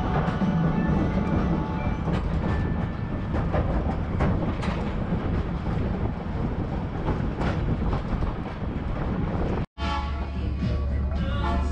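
Open-air passenger car rolling along the track: a steady rumble with frequent short clicks from the wheels. After a brief break near the end, a low drone comes in and the locomotive's horn begins to sound as a chord of several steady tones.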